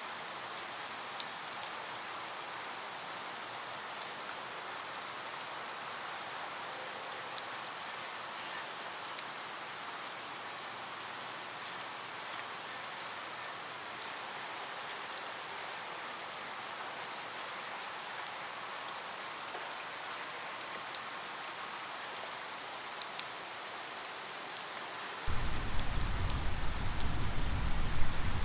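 Steady rain: an even hiss with scattered drops ticking. A few seconds before the end, a low rumble of thunder sets in suddenly and is louder than the rain.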